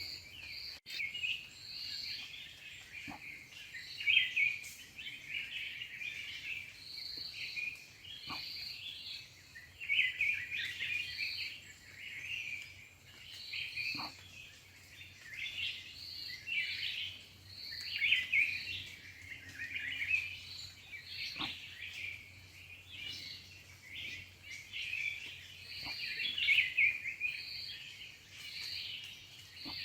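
Many small birds chirping and calling together, with a short higher note repeating every second or so and a few faint clicks.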